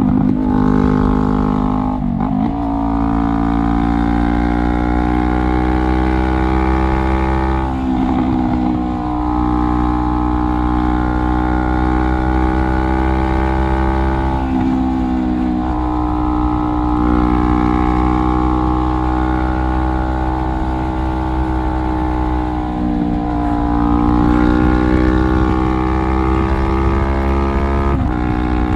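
Straight-piped 2017 Honda CBR500R parallel-twin engine and exhaust under way, heard from onboard. The engine note holds steady for several seconds at a time, with a brief break and a change in pitch about five times, as with gear changes or throttle changes.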